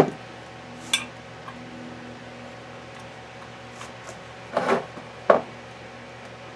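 Metal gearbox parts and tools clinking and knocking as they are handled and set down: a few sharp clinks, the loudest at the start, another about a second in, and a short cluster near the end.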